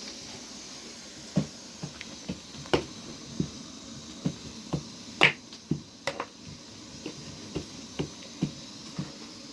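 A series of short, sharp clicks and taps at an irregular pace, about one or two a second, over a steady low hiss; the loudest comes a little after the middle.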